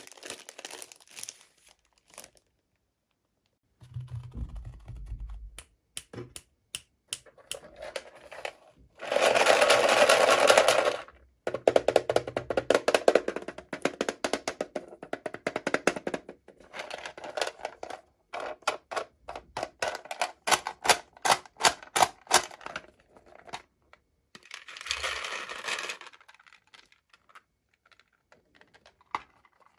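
Toy packaging being handled and opened: plastic and card crinkling and rustling, with many quick clicks and taps. The loudest rustle comes about a third of the way in, and there are short silent gaps.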